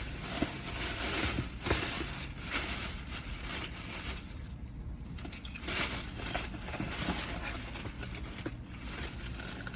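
Crinkling and rustling of paper food packaging being handled, in irregular bursts with a quieter stretch about halfway through.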